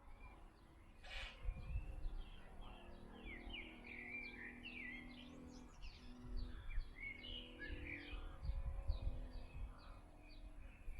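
Small birds chirping and twittering in quick, overlapping calls, over a low rumble.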